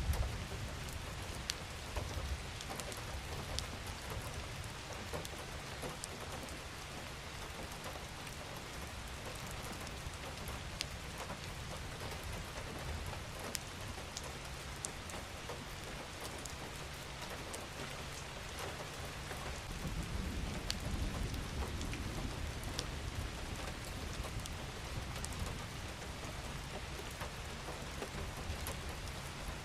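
Steady rain falling on a surface, with individual drops ticking here and there. A low rumble swells about two-thirds of the way through.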